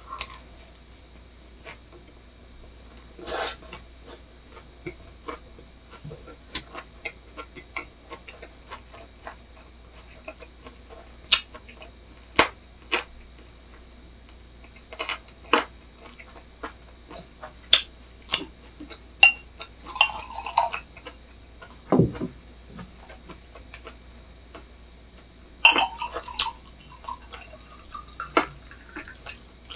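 Close chewing of a lettuce wrap of grilled pork belly with raw garlic and green pepper: many scattered crisp clicks and wet mouth sounds. Near the end, beer is poured from a bottle into a glass.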